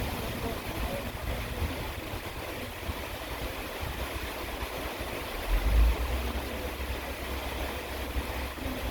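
Steady rain hiss over a low rumble of distant thunder, the rumble swelling briefly a little past the middle.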